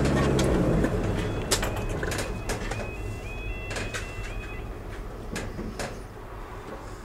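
Vehicle engine idling, heard from inside the cabin, with faint high warning tones from the level crossing alarm stepping between pitches as the barriers come down, and scattered clicks. The engine hum is loudest in the first second and then fades.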